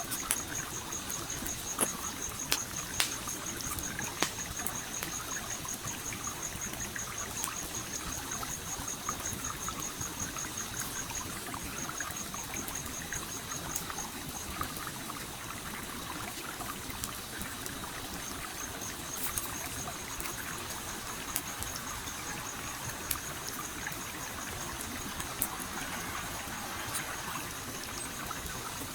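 A stream flowing steadily, with sharp crackles and pops from a campfire scattered through it, the loudest few in the first four seconds. A high, rapidly pulsing tone runs through most of it, dropping out for a few seconds around the middle.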